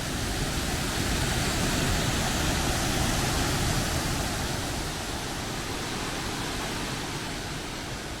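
Waterfall: a steady rush of falling water, a little louder a couple of seconds in, then easing slightly.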